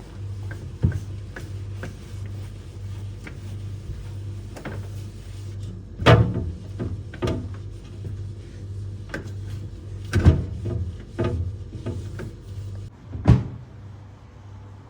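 Food containers being set down and moved about in a refrigerator: irregular knocks and clatters, the loudest about six, ten and thirteen seconds in.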